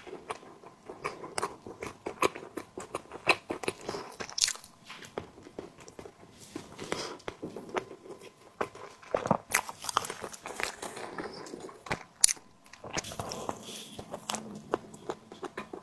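Close-miked eating of a tiger skin dessert: bites and chewing, heard as many irregular small sharp clicks, with a few louder bites.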